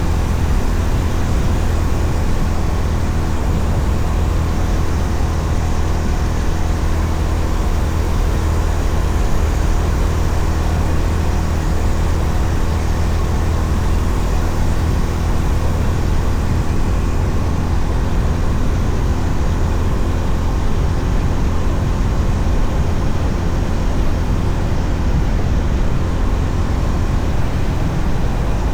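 Honda CB350RS's air-cooled single-cylinder engine running at a steady pitch while riding, under a heavy rush of wind noise.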